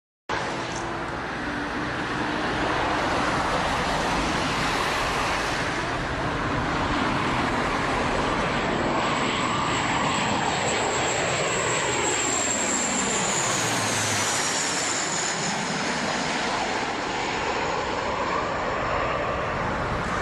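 Jet airliner engines, a steady loud roar as the plane passes, with a high turbine whine that falls in pitch about two-thirds of the way through.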